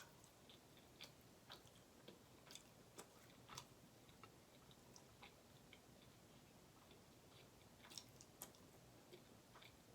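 Faint, irregular chewing and small wet mouth clicks of someone eating butter chicken with rice and garlic naan.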